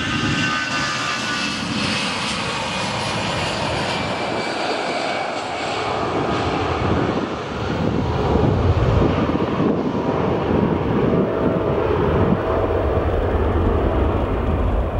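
Boeing 777-300ER jet airliner landing: its GE90 jet engines' whine, then a louder low rumble that builds from about halfway through.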